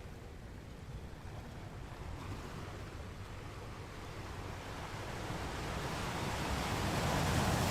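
Ocean wave rolling in: a steady wash of surf that slowly swells over several seconds to its loudest near the end as the wave breaks.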